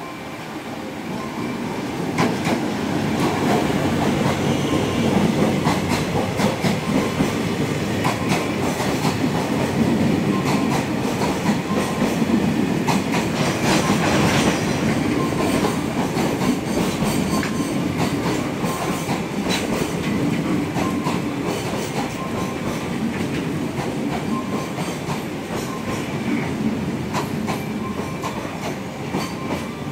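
A DD200 diesel-electric freight locomotive draws up close and passes, getting louder over the first two or three seconds. A long string of container wagons then rolls by, their wheels clicking steadily over the rail joints.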